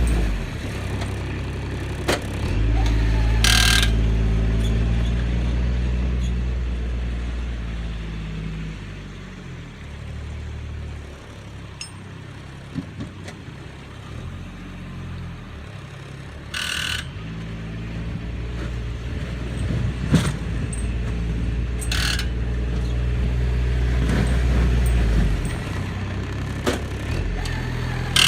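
Kubota compact tractor's diesel engine running, its drone rising and falling in load as it works, with three brief sharp noises over the top.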